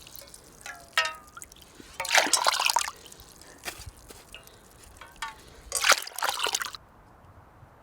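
Water splashing in two short bursts, with small gurgles and drips between.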